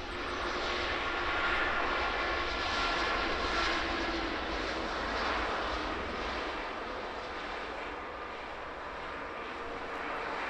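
Airliner engines passing on the approach to land: a rushing noise with a steady whine. It swells over the first couple of seconds and eases from about six seconds in.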